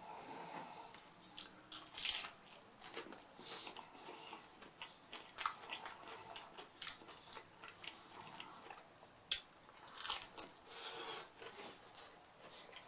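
Chewing and biting into crispy hard-shell mini beef tacos: irregular crackly crunches of the fried shells with wet mouth sounds between them.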